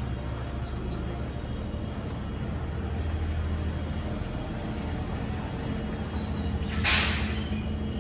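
Diesel-electric locomotive (JR Freight DD200) engine running with a steady low hum, with a short loud hiss of compressed air from the brakes about seven seconds in.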